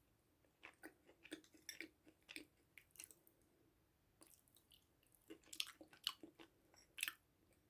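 Quiet, close-miked chewing: soft wet mouth clicks and smacks at irregular intervals.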